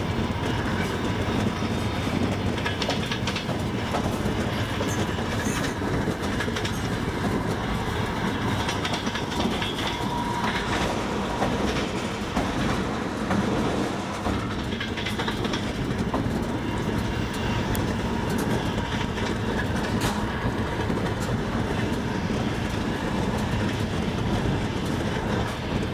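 Double-decker passenger train running steadily, its wheels clattering over the rail joints, with a few sharper clicks now and then.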